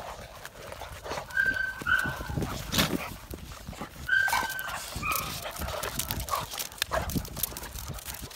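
American Bully dogs play-fighting. Short high whines or yelps come in two bunches, about a second in and again about four seconds in, over steady scuffling and claws clicking on the floor.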